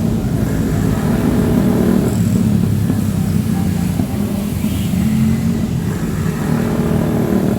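Motor vehicles running on a wet city street in heavy rain. A low engine rumble, swelling and easing, is the loudest sound, with a hiss of rain under it.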